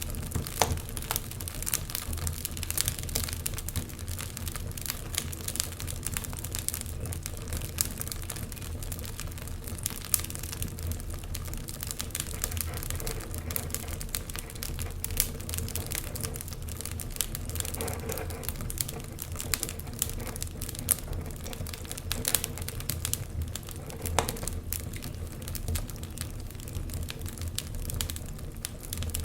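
Wood fire burning, crackling with dense, irregular snaps and pops over a steady low rumble.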